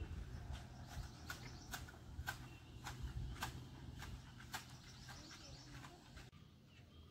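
Faint chirps from a bird, short calls repeating about twice a second, over a low steady rumble that cuts off near the end.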